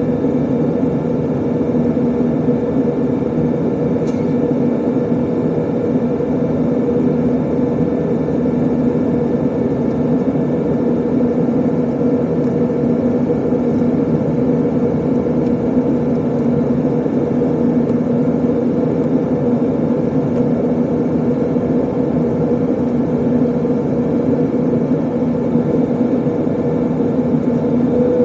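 Airbus A320 airliner cabin in flight: a steady drone of engines and rushing air with an even low hum.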